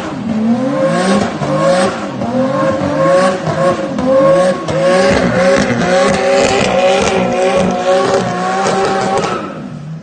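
Nissan Skyline R32 GT-R's twin-turbo straight-six revving up and down over and over during a burnout, rear tyres squealing as a steady high tone under it. The engine note falls away just before the end.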